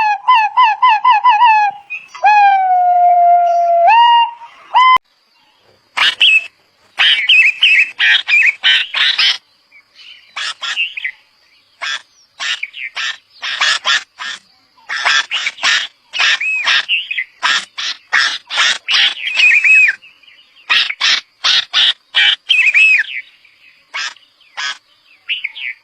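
Red-vented bulbul chirping in short bursts of bright, quick calls, with a faint steady high whine behind them. For the first five seconds a siren-like pitched tone warbles rapidly up and down, then slides down in one long note, before the bird calls begin.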